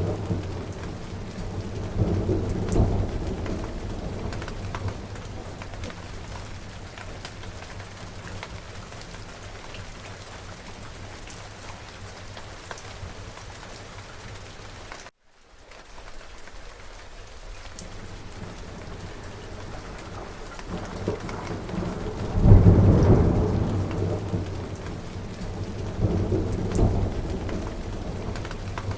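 Steady rain falling, with rolling thunder: a rumble fading over the first few seconds, then a louder peal about two-thirds of the way through and another rumble a few seconds after it. The sound cuts out for a split second about halfway.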